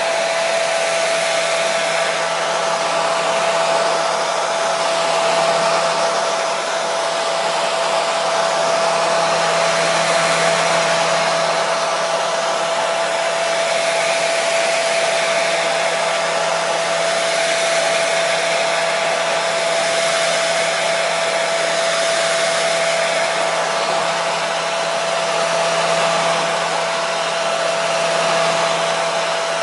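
Hair dryer running continuously, a steady whooshing blow of air with a constant motor whine.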